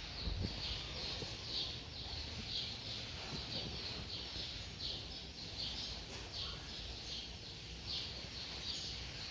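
A high chirp repeating steadily, about once or twice a second, over a low background rumble.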